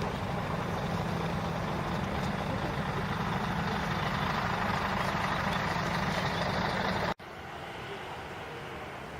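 Steady rumble of a running vehicle engine, cut off abruptly about seven seconds in and followed by a quieter steady background.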